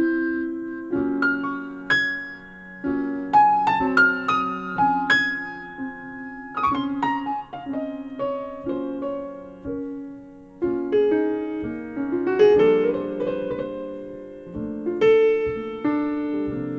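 Instrumental piano passage from a jazz ballad recording, played back through JBL K2 S5500 loudspeakers and picked up in the listening room: slow chords and single notes, with a falling run of notes in the middle and a rising run near the end.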